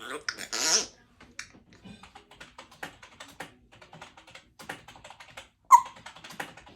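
Typing on a computer keyboard: a run of rapid, irregular key clicks. A louder noisy burst comes in the first second, and a single sharp, loud sound comes about five and a half seconds in.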